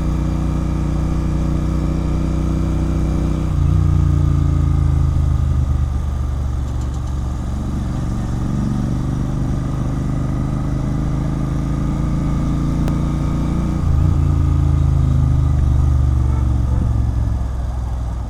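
Royal Enfield Continental GT 650's parallel-twin engine running steadily through a loud aftermarket Red Rooster Performance exhaust. The engine note changes about three and a half seconds in, rises slowly over the middle, and changes again near fourteen seconds, as with throttle or gear changes.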